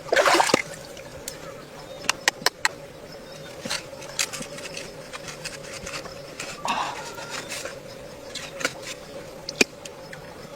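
Scattered sharp clicks and taps of hard objects handled at close range, with a short scraping rustle at the start and another about two-thirds through, over a faint steady hum.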